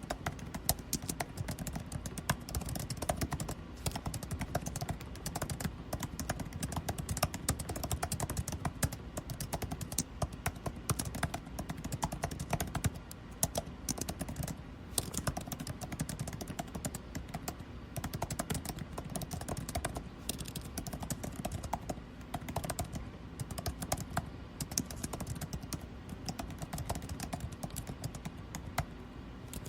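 Computer keyboard typing, rapid and irregular key clicks, over a steady low air-conditioning hum.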